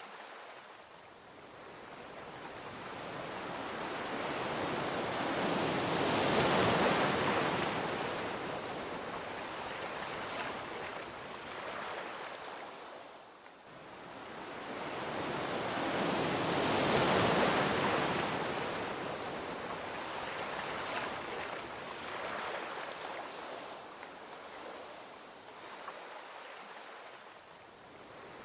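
Gentle ocean waves washing onto a beach: two slow swells of surf noise, one cresting about seven seconds in and the next about seventeen seconds in, each fading away as the wave draws back.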